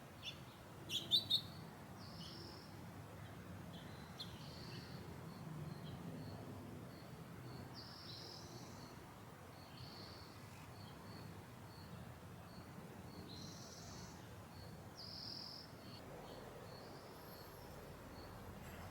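Faint garden birds chirping and calling over a low, even background noise. A few sharp chirps come about a second in, and after that short high chirps recur every couple of seconds while a soft high note repeats steadily.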